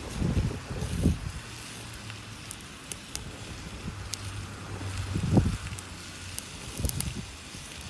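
Campfire burning, with a steady hiss and sharp wood crackles and pops every second or so. Low rumbles of wind on the microphone swell near the start, midway and near the end.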